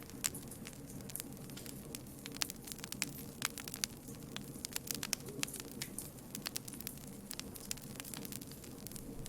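Campfire crackling: wood burning with frequent irregular sharp pops and snaps over a soft steady rumble of the flames.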